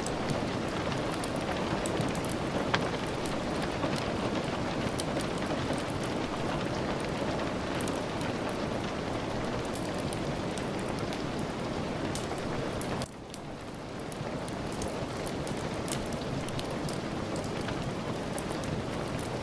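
Steady rain, an even hiss dotted with scattered sharp ticks of drops. About two-thirds of the way through, the sound drops suddenly and then swells back up over about a second.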